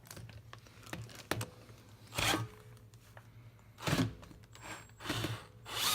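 Several short scrapes and clacks of metal parts inside a dismantled semi-hermetic compressor as its crankshaft and pistons are turned by hand, spaced a second or so apart, over a faint steady hum.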